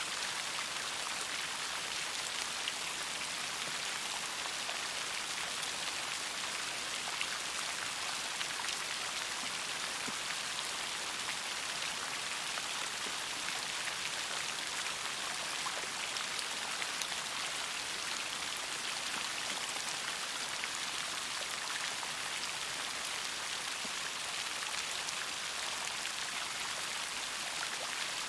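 Steady rain falling, a continuous hiss of drops with fine scattered patter and no change in intensity.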